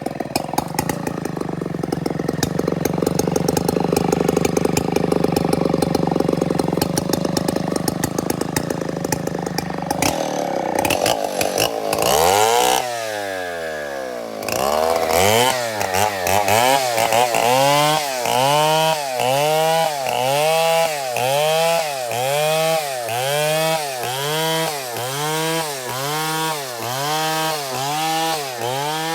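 Stihl 070 two-stroke chainsaw running at full throttle through the wood, then the engine note drops after about twelve seconds. After that the engine revs up and falls back over and over, roughly once a second.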